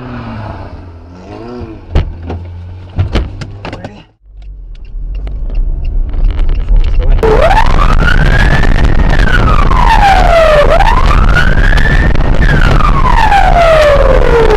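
Emergency vehicle siren wailing loudly, its pitch sweeping slowly up and down. It starts about seven seconds in. Before it, a vehicle hum carries a few sharp knocks about two and three seconds in.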